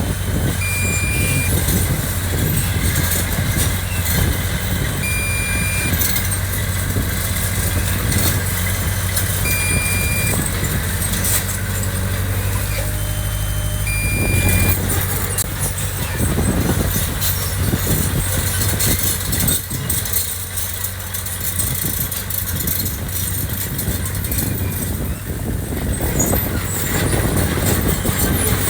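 Heavy construction machine's diesel engine running steadily, with a short high beep about every four to five seconds.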